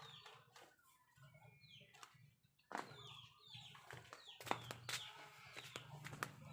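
Faint chickens clucking, with several sharp clicks or knocks from about three seconds in.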